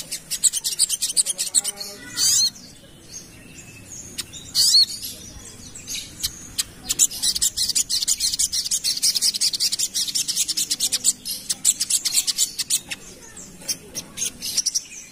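Sogok ontong (little spiderhunter) song: rapid, high-pitched chattering trills. Two short, loud whistled notes come about two and five seconds in.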